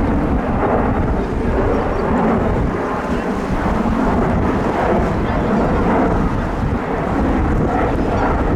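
Airbus A330-300 airliner's jet engines giving a steady, deep rumble as it passes on its landing approach, mixed with wind buffeting the microphone.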